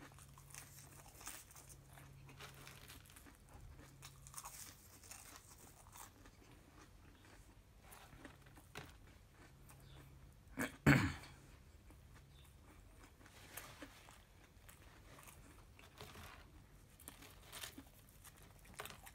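A person chewing fast-food french fries close to the microphone: faint, soft crunching and wet mouth sounds. About eleven seconds in there is one brief, much louder sound.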